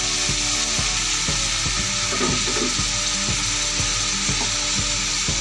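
Chicken with tomatoes, yogurt and spices frying in hot ghee in a steel pot: a steady sizzling hiss, with a regular low ticking about three times a second underneath.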